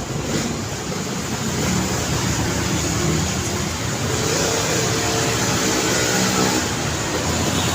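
Road traffic with a motor vehicle's engine running close by, growing louder over the first couple of seconds and then holding steady.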